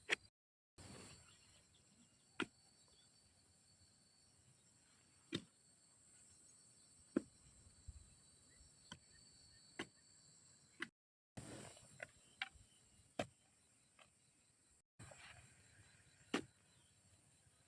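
Faint, steady insect chirring with scattered sharp single knocks at irregular intervals, and brief dead gaps where the sound cuts out.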